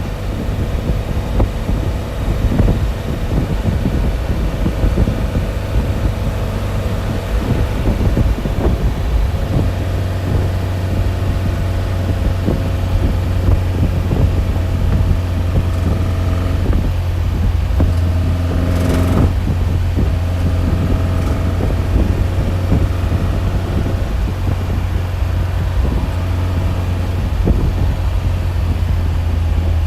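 A steady low rumble with several steady humming tones from a running motor, and a brief louder rushing noise about 19 seconds in.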